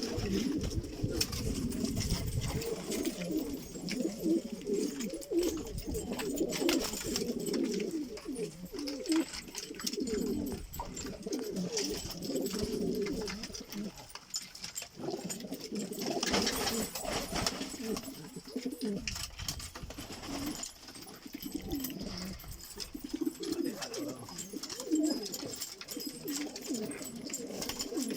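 Domestic pigeons cooing together in an enclosed loft, several birds overlapping continuously, with scattered light clicks and scuffles among them.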